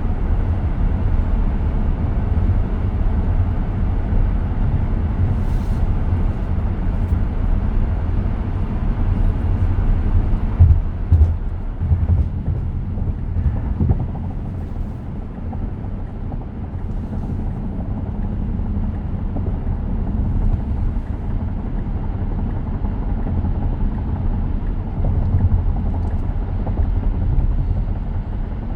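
Steady low rumble of road and tyre noise inside a 2023 Tesla Model X cabin while driving, with no engine note. There are a few bumps about eleven to fourteen seconds in.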